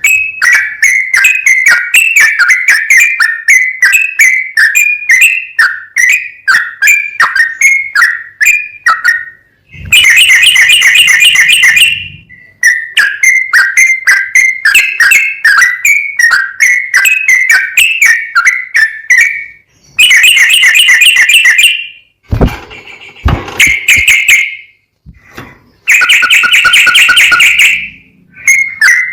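Sooty-headed bulbul (trucukan) singing a fast run of repeated chirping phrases. Three louder, denser stretches of about two seconds each break the run, and a few sharp clicks come about two-thirds of the way in.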